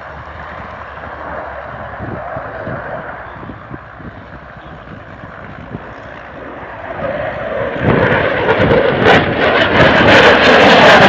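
Dassault Rafale's twin turbofan jet engines: a steady distant rumble that swells into a loud jet roar from about seven seconds in.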